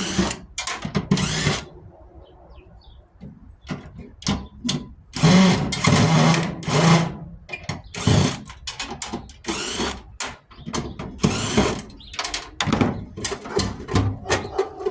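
Power drill running in repeated short bursts, each lasting up to about a second, while a scrap furnace is being dismantled.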